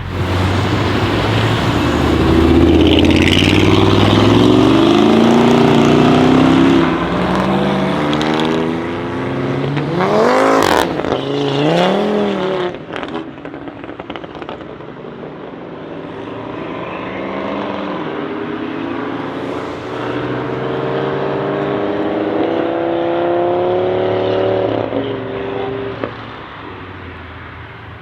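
Audi RS3 8P's turbocharged five-cylinder engine through a straight-pipe exhaust, running loud, then revving up and down with a sharp crack about ten seconds in. In the second half it pulls away in a long rising note that fades out.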